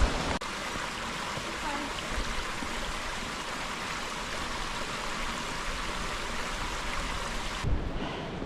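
Steady rush of water from Stanley Ghyll, the beck and its falls in the steep ravine. The sound changes abruptly about half a second in and again near the end.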